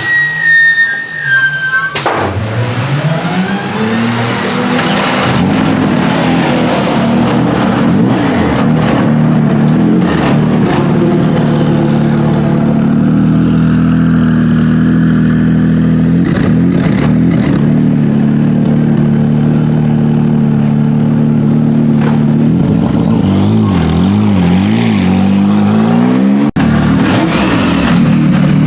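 BMW M4 GT3's twin-turbo straight-six running. Its pitch climbs about two seconds in and then holds fairly steady, with several quick rises and falls near the end. A brief high falling whine comes in the first two seconds.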